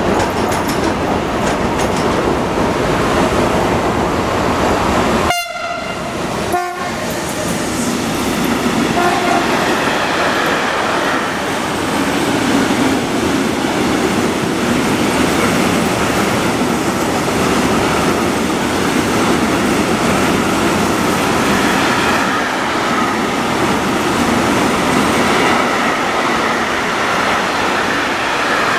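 Freight train of container wagons passing at speed close by, a steady loud rush and rumble of wheels on the rails. About five seconds in the locomotive sounds two short horn blasts, about a second apart.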